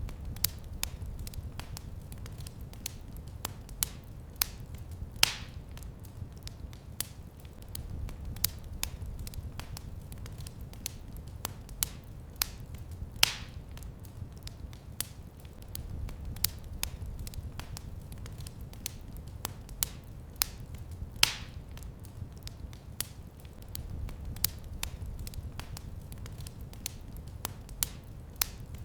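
Fire crackling in a fireplace: a steady stream of small crackles over a low rumble of the flames, with a louder pop about every eight seconds.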